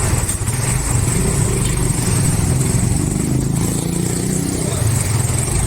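Motorcycle engine of a tricycle (motorcycle with sidecar) idling steadily.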